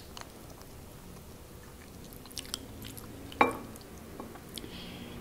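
Close-miked mouth sounds of someone chewing a mouthful of pork sinigang: quiet chewing with a few soft wet clicks, and one sharper click about three and a half seconds in.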